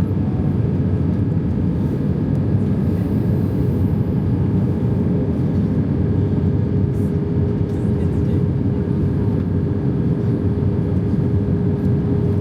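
Steady rumble of an Airbus A320's engines and airflow heard inside the passenger cabin, with a steady whine that grows clearer about halfway through, while the aircraft is on approach for landing.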